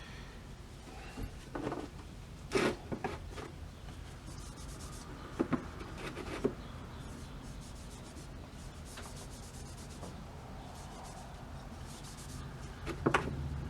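Faint rubbing and handling as paste wax is worked onto a small metal pry bar by hand, with a few sharp little clicks and knocks of the tool and wax tin being handled.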